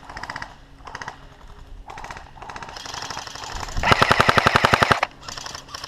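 Airsoft guns firing on full auto: several distant rapid bursts, then one loud, close burst of about a second, a little under four seconds in, followed by more faint bursts.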